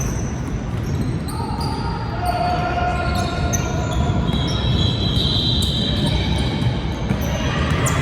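Basketball game play on a gym court: sneakers squeaking on the hardwood floor in many short squeaks at varied pitches, over the ball bouncing and a steady background of the hall.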